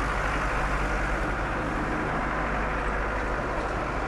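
Steady background drone like distant vehicle engines and traffic, with a low hum underneath.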